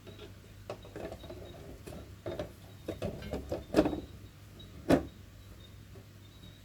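Clock parts and tools being handled: a run of irregular clicks and knocks, the two loudest about four and five seconds in.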